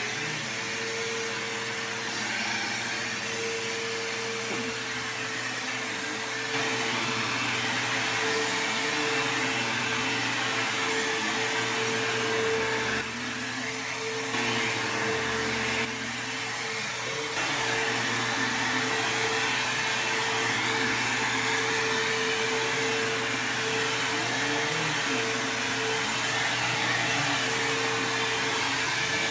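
Bissell CleanView II bagless upright vacuum cleaner (model 3574) running steadily while vacuuming, its motor giving a constant hum, with small rises and dips in level as it is worked across the floor.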